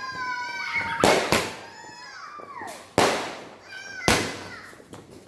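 A 30-shot multicolour aerial firework cake firing: four sharp bangs about a second apart, the first two close together, with whistling tones that bend and fall in pitch between them.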